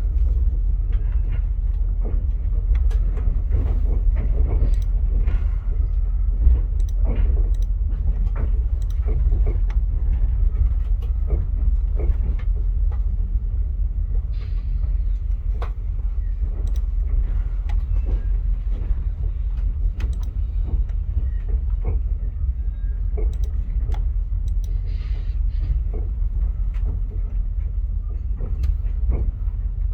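Via Rail passenger train running, heard on board: a steady low rumble with irregular clicks and knocks scattered throughout.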